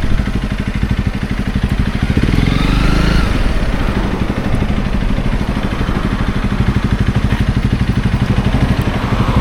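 Motorcycle engine running at low speed with a steady pulsing beat, its revs rising briefly about two seconds in.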